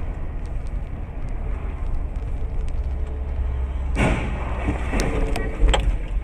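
Car driving, with a steady low road rumble. About four seconds in comes a sudden loud noisy burst, followed by a few sharp clicks or knocks.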